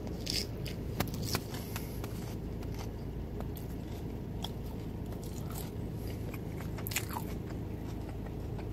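Close-up chewing of a bitten junior bacon cheeseburger: wet smacks and short mouth clicks scattered through, a few sharper ones about a second in and near the end, over a steady low hum inside the car.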